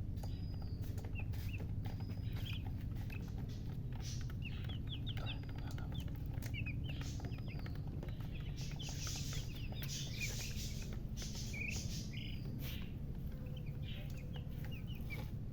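Newly hatched chicks peeping: many short, high chirps overlapping throughout, over a steady low hum.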